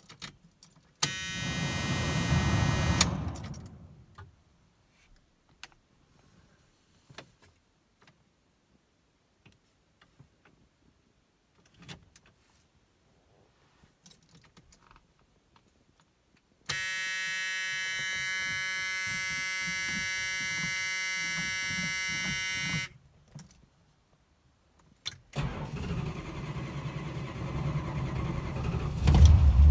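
A classic Chrysler car being cold-started. A short first crank comes about a second in, then quiet clicks from the key and pedal, and a steady electric buzzer sounds for about six seconds in the middle. Near the end the starter cranks again and the engine catches and starts.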